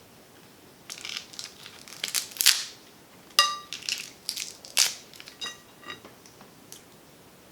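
Snow crab shells being cracked and snapped apart by hand close to the microphone: a run of sharp cracks and crunches, with a few short squeaks.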